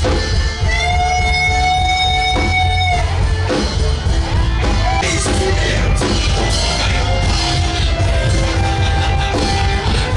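Live worship band music with heavy bass and drums; a long held note sounds from about a second in for about two seconds, with shorter melodic notes after.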